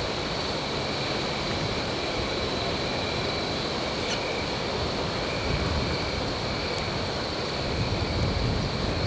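Steady seaside ambience: a low, even rumble of surf, with insects chirring in a steady high tone over it.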